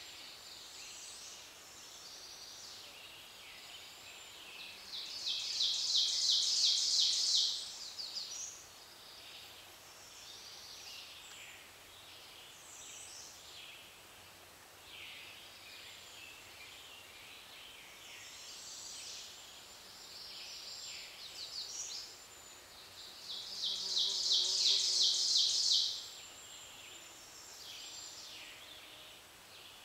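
Spring woodland birdsong chorus, with several birds calling and singing high and thin. One bird twice sings a loud song of fast repeated notes, each lasting about two and a half seconds, roughly eighteen seconds apart.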